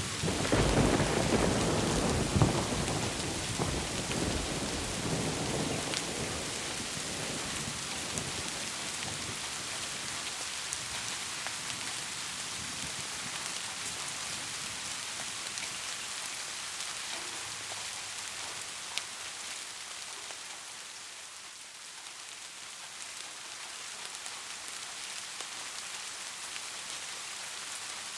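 Heavy rain in a thunderstorm: a loud roll of thunder in the first few seconds rumbles and fades away, leaving a steady rain hiss.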